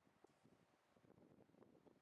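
Near silence, with faint irregular low rustling and crackling.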